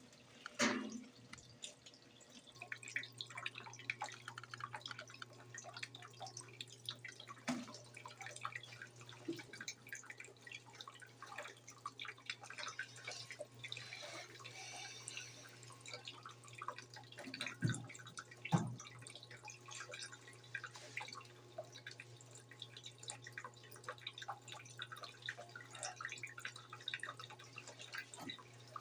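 Brastemp BWG11 washing machine: water splashing and dripping in the tub over a steady low hum that sets in about two seconds in, with a few dull knocks.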